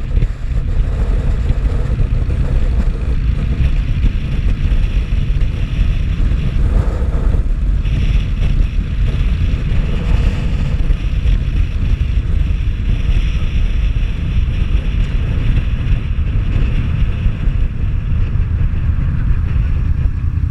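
Wind rushing over the microphone while riding a motorcycle, a steady heavy low rumble with road and engine noise underneath.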